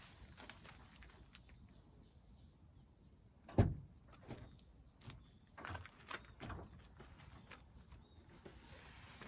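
A dull thump about three and a half seconds in, then several lighter knocks and clatters, over a steady high-pitched outdoor hiss.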